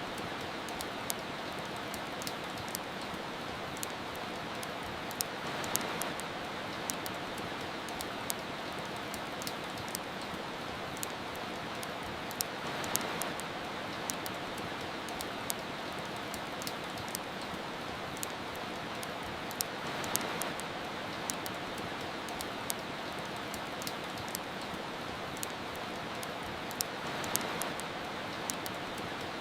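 Steady rain hiss mixed with a fireplace crackling: many small sharp pops over the even wash of rain, which swells a little about every seven seconds.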